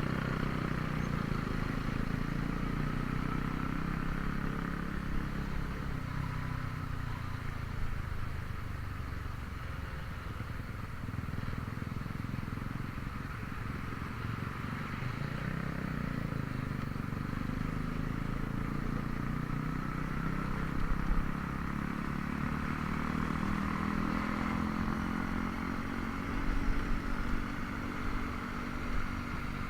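Honda Vario 125 scooter's single-cylinder engine and belt-drive running under way, its pitch dropping as it eases off and rising again as it speeds up, over a steady rush of wind and road noise. A few brief knocks, like bumps in the road, come around two-thirds of the way through and near the end.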